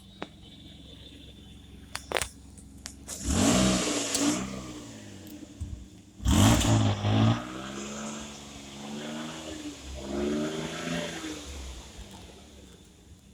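2005 Kia Sportage's 2.7-litre V6 engine idling, then revved hard twice and given several lighter throttle blips before it settles back to idle. This is an engine test, and the engine is in good running order.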